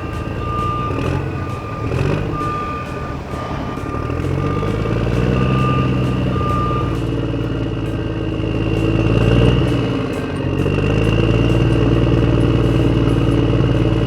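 Heavy construction machine's diesel engine working, its revs rising, dropping briefly and rising again, under a steady high whine. A reversing alarm beeps repeatedly through about the first half, then stops.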